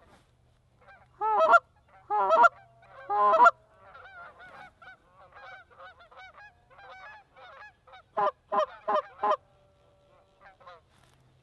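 Geese honking: three loud honks, a stretch of fainter honks from a flock, then a quick run of five loud honks.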